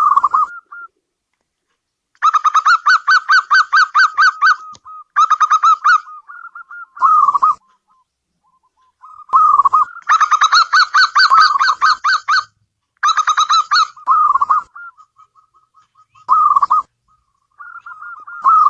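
Zebra dove (perkutut) cooing: several fast runs of short, clipped coos all on about the same pitch, broken by pauses and by a few single, longer coos.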